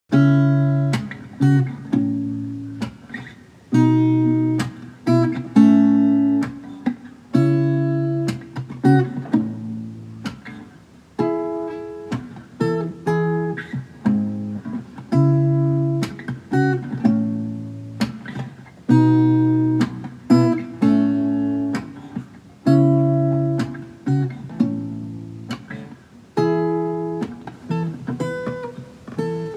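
Solo acoustic guitar improvisation: chords struck every few seconds and left to ring out, with single plucked notes between them.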